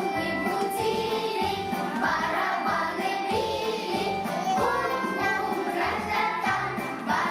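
A children's song with a steady beat, sung by children's voices.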